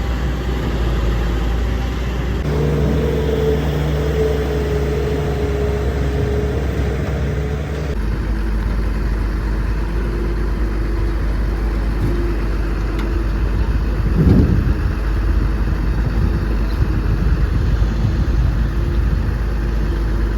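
Heavy vehicle engines running steadily, the sound changing abruptly twice in the first eight seconds, with a brief louder surge about fourteen seconds in.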